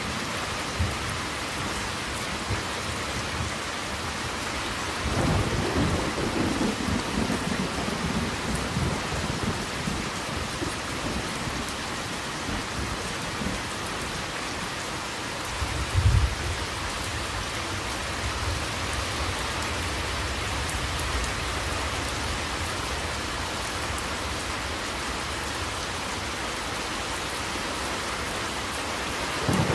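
Steady rain falling, with thunder. A low roll of thunder comes in about five seconds in and dies away over a few seconds. A shorter, sharper thunder clap comes a little past halfway, and another rumble starts right at the end.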